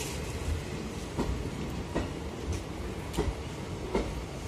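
Indian passenger train coaches rolling past along the platform: a steady low rumble with irregular clacking as the wheels pass over the track.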